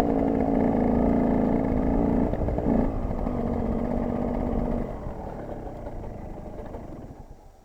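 KTM 125 EXC's two-stroke single-cylinder engine running at steady revs, with a brief shift in pitch two to three seconds in, then fading away over the last few seconds.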